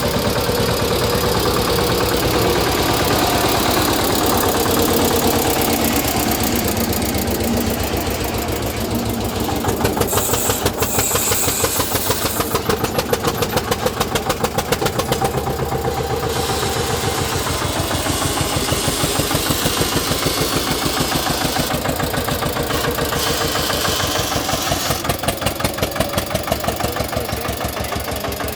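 Eicher 241 tractor's single-cylinder diesel engine running with an even, pulsing beat; from about ten seconds in the pulses become louder and more distinct.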